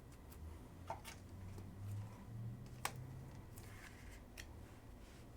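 Faint handling of trading cards and their plastic holders: light rustles and small clicks, with one sharper click about three seconds in.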